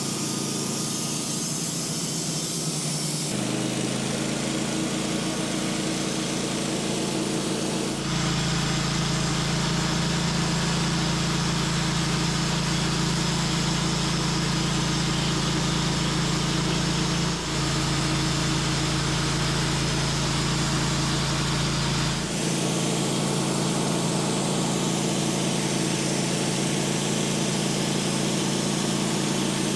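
A sawmill's engine running steadily. Its tone shifts abruptly a few times, about 3, 8 and 22 seconds in.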